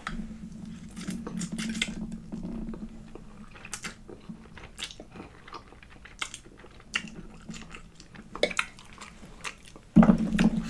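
Close-miked eating of pasta: chewing and slurping with many short wet mouth clicks and smacks, and a low hummed "mm" at times.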